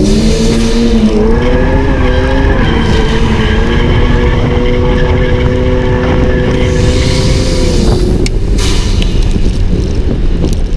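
Car engine held at high revs during a drift run. Its pitch wavers at first, then holds steady for several seconds and drops off about eight seconds in, over a constant rushing noise.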